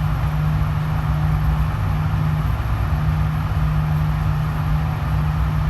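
Steady low droning hum with an even rushing noise over it, the air-handling of an indoor shooting range. No shot is fired.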